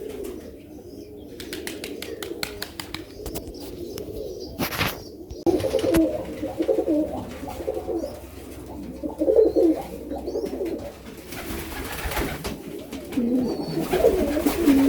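Domestic pigeons cooing close by in several bouts. Before the cooing there is a run of quick light clicks and a sharp knock about five seconds in.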